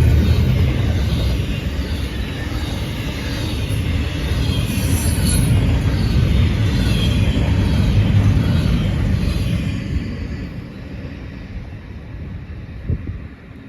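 Freight train rolling past, a heavy rumble with wheels clattering on the rails, dying away from about ten seconds in.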